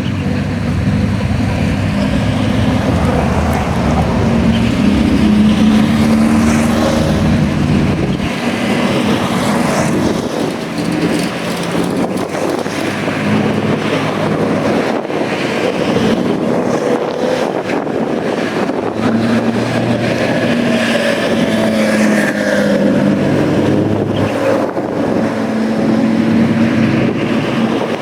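Sports car engines running and revving, their pitch rising and falling, with wind noise on the microphone.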